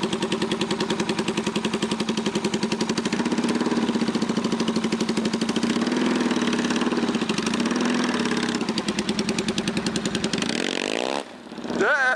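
Small motorcycle engine running with fast, even firing pulses, its pitch swelling a little midway. About eleven seconds in the note drops away, then quickly rises again.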